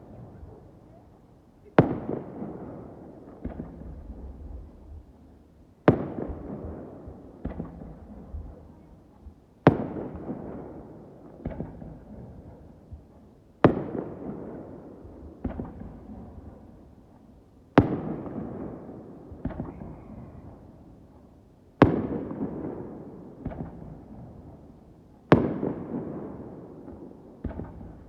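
Aerial firework shells bursting one at a time, a sharp bang about every four seconds, seven in all. Each bang fades off over a few seconds with one or two smaller pops after it.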